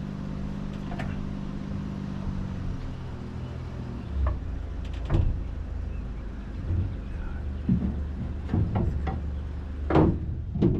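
A steady low mechanical hum that drops away about three seconds in, leaving a lower rumble, with about six scattered knocks and clanks; the loudest come near the end.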